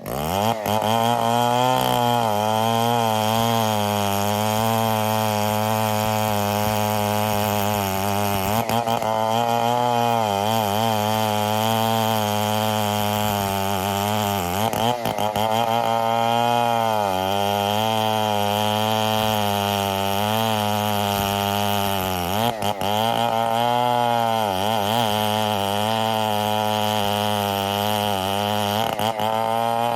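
STIHL 070 large two-stroke chainsaw revving up, then held at high throttle while cutting ironwood. The engine pitch sags briefly several times as the chain bogs under load and recovers.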